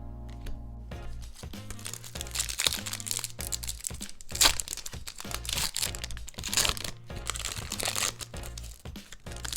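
Packaging being handled, crinkling and crumpling over background music. The crinkling starts about a second in and keeps up almost to the end.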